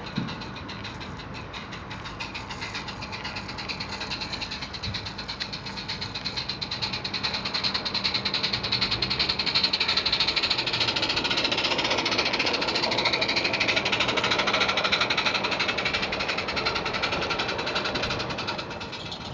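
Garden-scale narrow gauge model train running past with a fast, even clatter. It builds up, is loudest about halfway through, and drops off suddenly near the end.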